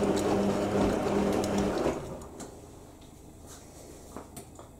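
IKEA RENLIG IWM60 washing machine's drum motor humming steadily as it tumbles the load during the rinse. About two seconds in it cuts out for the pause before the drum reverses, leaving a few faint clicks.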